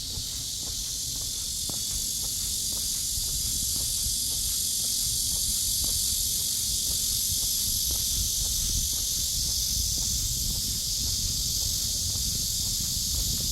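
Steady, high-pitched drone of a summer cicada chorus, with faint footsteps along a path and a low rumble underneath.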